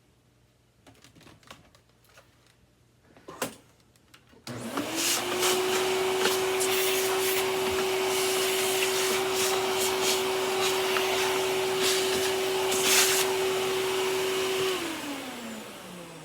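Vacuum cleaner switched on about four and a half seconds in, its motor spinning up to a steady whine with a loud rush of air, running for about ten seconds, then switched off and winding down near the end. A couple of clicks come before it starts.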